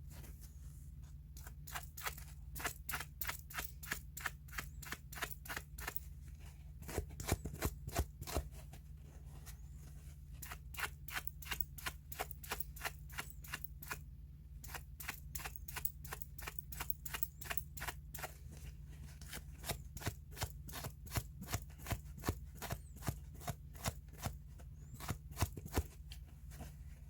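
A long, even run of short sharp clicks or scraping strokes, about three to four a second with a couple of brief pauses, from hand work on an old watch, over a steady low hum.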